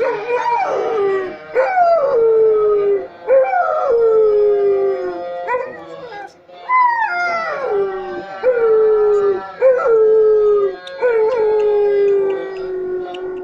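A dog howling, as it does at each call to prayer: about eight long howls one after another, each starting high and sliding down in pitch.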